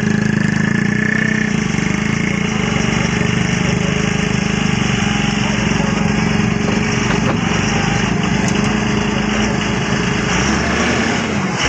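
Doosan DX140 excavator's diesel engine running steadily while the machine digs, with a few faint knocks; the engine note dips and rises briefly near the end.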